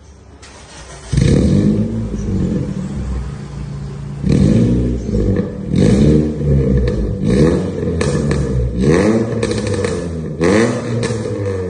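Car engine heard through an Alpino F02 V2 stainless-steel muffler with a 4-inch tip, tuned for a 'dry' tone. The engine comes in suddenly about a second in and is then revved in repeated short blips, its pitch rising and falling with each one.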